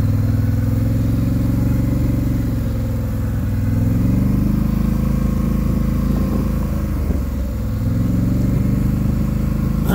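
Polaris Sportsman 850 ATV's twin-cylinder engine running as it is ridden, its engine speed rising and falling several times.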